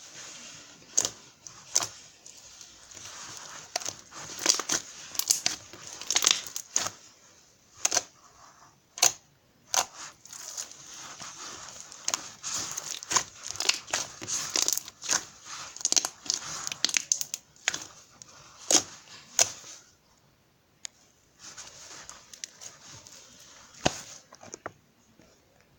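Close-up crinkling and tearing of something being handled, with many sharp irregular clicks and crackles. The handling pauses briefly twice.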